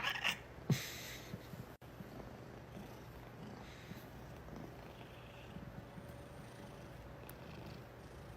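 A cat purring, faint and steady, after a couple of short noises in the first second.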